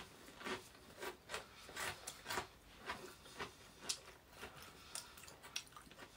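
Chewing and crunching of bread crust close to the microphone: a faint, irregular string of short crunches, a few a second.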